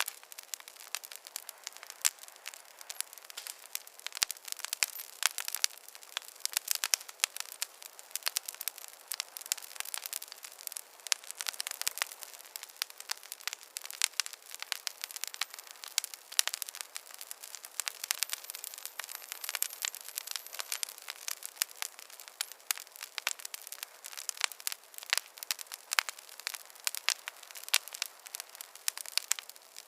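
Fireplace fire crackling: a dense, irregular run of sharp pops and snaps over a faint steady hiss, with no low rumble.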